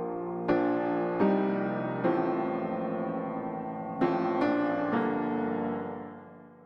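Slow piano music, chords struck every second or so and left to ring, fading out near the end.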